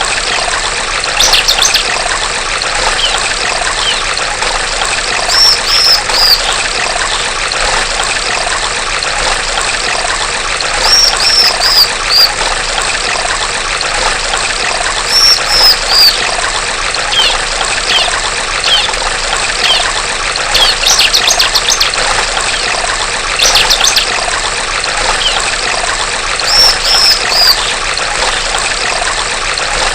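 Female bar-winged prinia (ciblek) calling over steadily trickling stream water. Every few seconds it gives either a short rapid trill or a group of three quick high chirps, with scattered single notes between.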